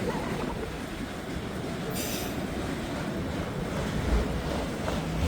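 Freight train rolling past, a steady rumble of wheels on rail with a brief high wheel screech about two seconds in. Gusty wind buffets the microphone near the end.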